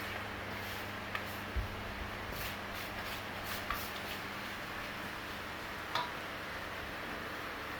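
Hands kneading dough, with a few soft, scattered taps and knocks over a steady low hum.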